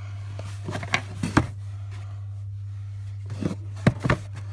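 Handling noises: a handful of short clicks and knocks in two clusters, about a second in and near the end, over a steady low hum.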